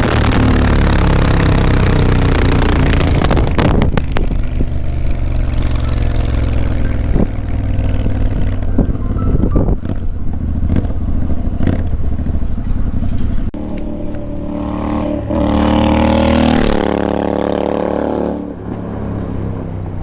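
Royal Enfield Continental GT 650's 648 cc parallel-twin engine running without its exhaust, under hard throttle for the first few seconds. The throttle then eases off, with a few sharp pops, and the engine revs up again past the middle before dropping away near the end.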